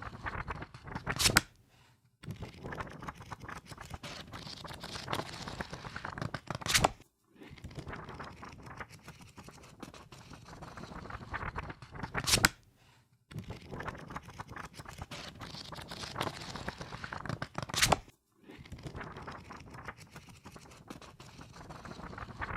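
A book's pages riffled quickly under the thumb: a run of fast fluttering rustle that ends in a sharp slap as the last pages flip free, then a brief pause. It repeats four times, every five to six seconds.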